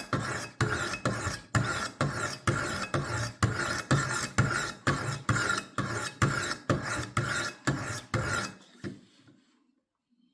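Sharpening stones of a Wicked Edge WE60 guided sharpener stroked back and forth along a kitchen knife's edge, about two to three strokes a second. The strokes stop near the end.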